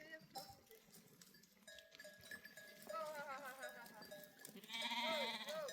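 Sheep or goats of a herd bleating: a quavering bleat about three seconds in, then a louder bleat near the end.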